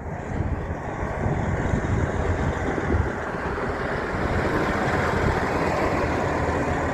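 Road traffic going past: the low rumble and tyre noise of a heavy truck driving by, a little louder from about four seconds in. No horn is heard.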